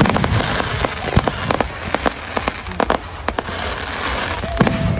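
Fireworks going off: a dense crackle with many sharp bangs and cracks at an irregular rhythm.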